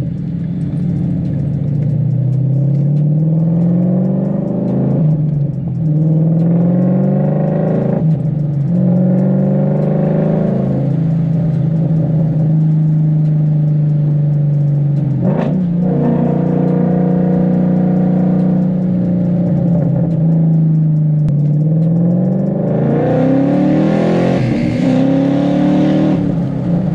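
Ford Mustang 5.0 V8 heard from inside the cabin, pulling hard through several gears. The engine note rises and drops at each upshift about four times, then holds steady at cruise with one sharp crack about halfway through, then rises again into the loudest hard pull near the end before an upshift.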